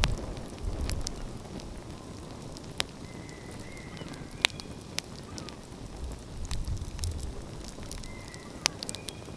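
Wood fire crackling with scattered sharp pops and a few louder snaps, over a low rumble that swells and fades.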